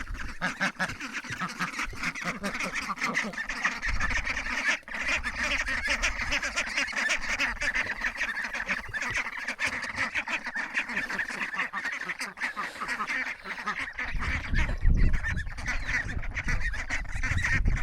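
A flock of Welsh Harlequin and Indian Runner ducks quacking continuously as they crowd in to eat freshly scooped feed. A low rumble joins in near the end.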